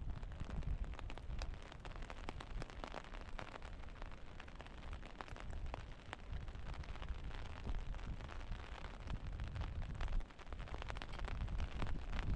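Rain falling, with many small scattered drop hits, over a heavy low rumble of wind buffeting the microphone.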